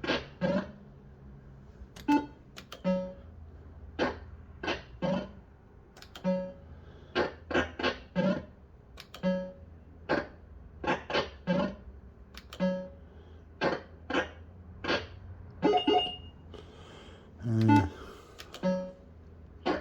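Bell-Fruit Wild Cats fruit machine's electronic sound playing a run of short bleeping notes, about one or two a second at uneven spacing, over a steady low hum.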